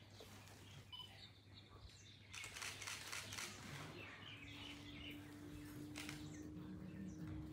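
Quiet room tone with faint, scattered bird chirps. A soft hiss comes up a little past two seconds in, and a faint steady low tone starts at about four seconds.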